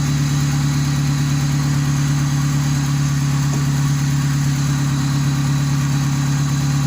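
Car engine idling steadily during an AC freon recharge. The AC compressor has not yet engaged, because the freon pressure is still too low.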